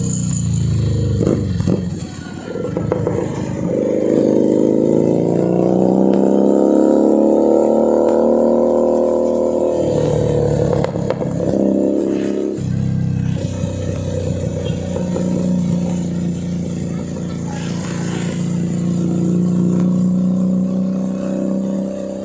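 Keeway SCR 250 motorcycle engine and exhaust while riding. The revs climb from about two seconds in and fall away again by about ten seconds. After a brief break near the middle the engine settles into a steady run.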